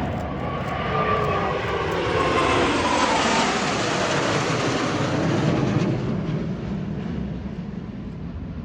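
Chengdu J-10 fighter jet flyby: the jet noise swells to a peak a few seconds in, with a whine that falls in pitch as it passes, then fades away.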